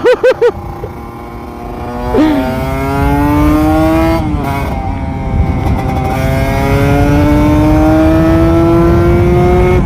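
Kawasaki Ninja RR 150's two-stroke single-cylinder engine under way. It gives a few quick throttle blips at the start, then pulls up through the revs, shifts up about four seconds in, and climbs steadily again in the next gear.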